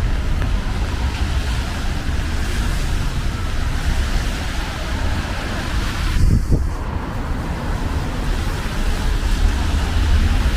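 Steady hiss of rain and of traffic on wet city streets, with a low rumble of wind on the microphone. About six seconds in, the hiss briefly dips while a short low gust comes through.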